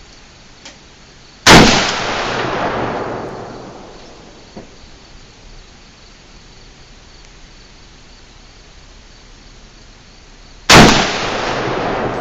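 Two gunshots about nine seconds apart, each followed by a long echo rolling away across the range. Crickets chirp faintly underneath.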